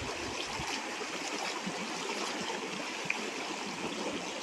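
River water rushing steadily, a continuous even noise; the river is running high after repeated rains. A single faint tick about three seconds in.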